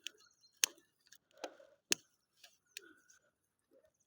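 Campfire crackling: irregular sharp pops from the burning wood, the two loudest about half a second and two seconds in, with softer snaps between.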